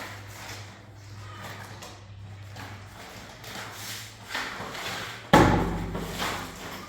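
Quiet knocking and shuffling, then about five seconds in a single hard slam that rings on for a second or so.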